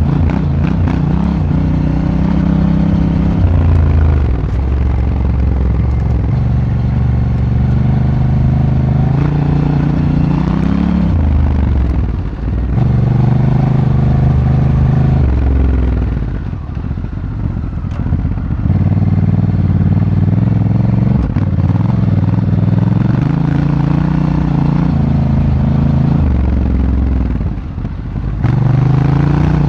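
Honda Africa Twin's parallel-twin engine heard on board while riding off-road, the engine note climbing and stepping as the throttle is worked and gears change. Three times the throttle is briefly closed and the note drops before it pulls again.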